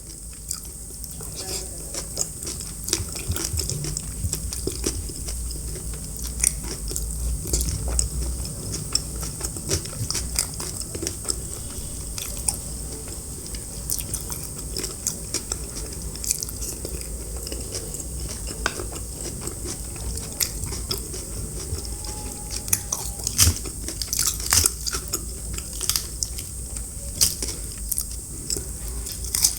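Close-miked chewing and biting of food, with many sharp, irregular crunches and mouth clicks over a steady high hiss.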